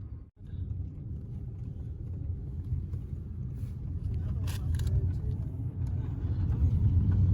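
Low, steady rumble of a car on the road, growing a little louder near the end.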